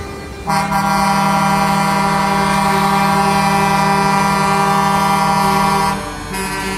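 Truck air horn blown in one long, steady blast that starts suddenly about half a second in and stops about six seconds in, followed at once by another horn blast.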